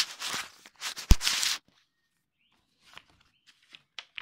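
Paper pages of a book being turned and handled: a sharp click, then about a second and a half of paper rustling with a thump in the middle, followed by a few faint ticks.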